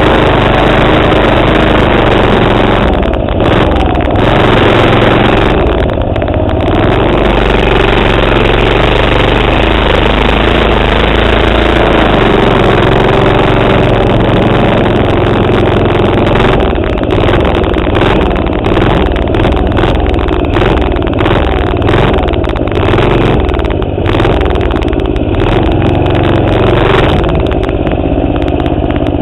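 Manco minibike's 3.5 HP Tecumseh single-cylinder four-stroke engine running hard and loud, its sound rising and dropping repeatedly with the throttle, most choppily in the second half.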